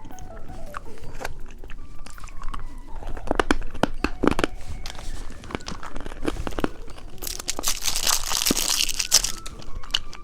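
Candy being handled and eaten: crisp clicks and crunches, then loud crinkling of plastic candy wrapping for about two seconds near the end.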